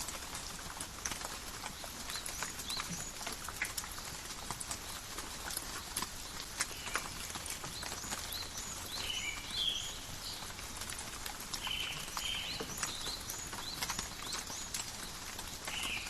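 Steady forest rain with drops pattering and dripping on leaves, heard as many separate sharp ticks over a soft hiss. Short high chirps come several times in the second half.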